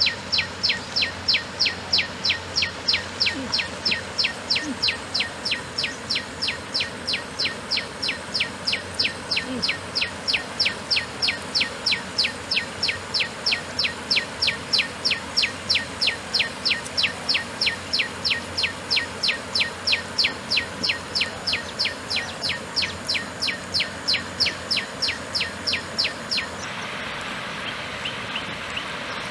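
A bird calling over and over, a short high chirp repeated about three times a second, steady and regular, until it stops suddenly near the end.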